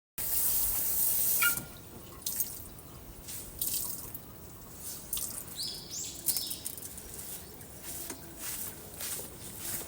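Kitchen tap running for about a second and a half, then shut off, followed by scattered drips and light clinks at the sink.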